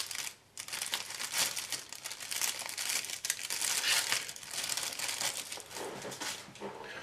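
Plastic bag crinkling steadily as model-kit sprues are handled and bagged, after a brief pause about half a second in.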